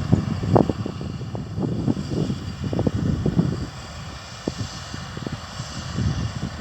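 Low drone of harvest machinery with gusty wind buffeting the microphone; the buffeting eases about halfway through.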